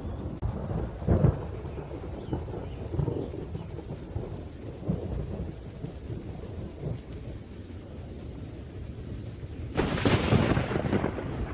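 Thunderstorm: thunder rumbling low and continuously over steady rain, with a sharp crack about a second in and a louder crackling thunderclap near the end.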